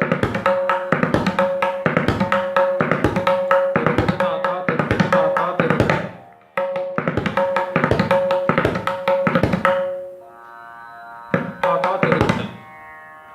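Tabla playing the bol 'ta ta tirakita' again and again: ringing 'ta' strokes on the right-hand drum, each followed by a quick run of 'tirakita' strokes. There is a brief break about six seconds in. The playing stops near ten seconds, leaving a steady sustained tone, and then a few more strokes follow.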